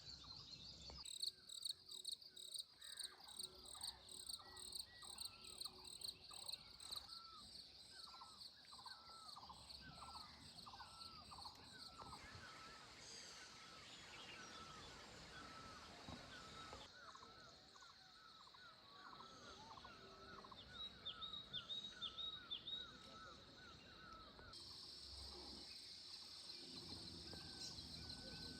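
Faint outdoor nature sound: an animal, likely a bird, calls over and over in a steady series of short arching notes, roughly two a second, over a steady high insect drone. A few higher chirps come in later, and the calling stops shortly before the end.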